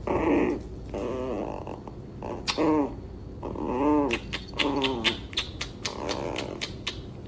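A dog vocalizing in a run of short whining, grumbling calls, each rising and falling in pitch, with a string of sharp clicks or taps in the second half.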